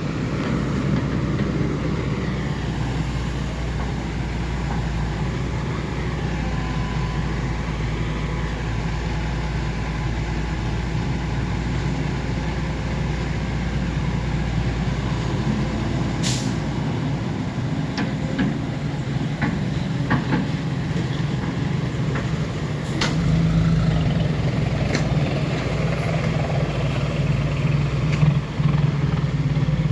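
Six-wheel diesel dump truck engine running steadily, getting louder about two-thirds of the way through, with a few short sharp sounds over it.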